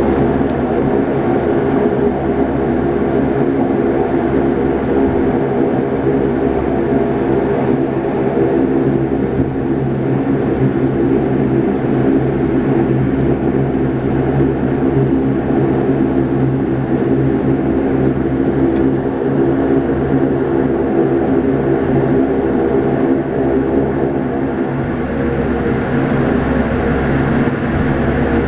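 Steady drone of a Saab 340B's two turboprop engines and propellers, heard inside the passenger cabin in flight: a constant hum of several propeller tones over airflow noise.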